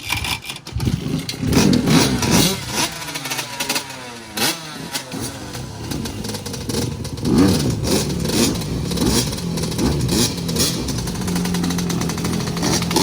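Dirt bike engine running and revving, its pitch rising and falling again and again, then settling to a steadier idle near the end.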